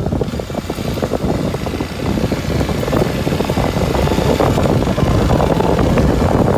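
Kawasaki Super Sherpa's 250 cc single-cylinder four-stroke engine running as the motorcycle rides along, loud and steady.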